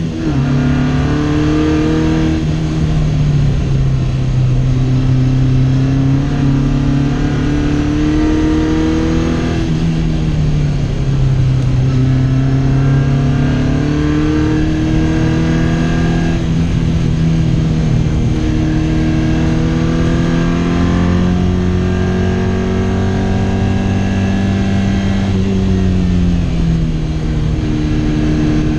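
Race-prepared Lotus Twin Cam four-cylinder engine in a Fiat 600 under hard acceleration, heard from inside the cabin. Its pitch climbs steadily and then drops sharply several times, as the gears change or the driver lifts for corners.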